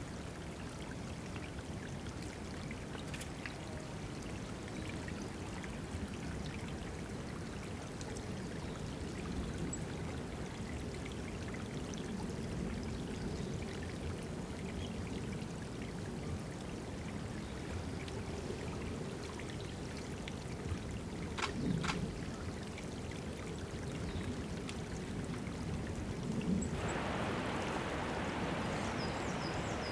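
Water trickling and splashing steadily into a birds' drinking pool, growing brighter and a little louder about 27 s in. A few faint, short, high bird chirps come near the end.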